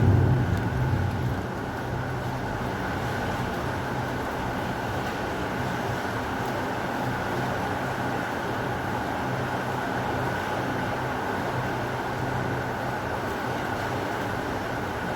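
Heavy rain falling steadily, with the end of a low thunder rumble dying away in the first second and a half.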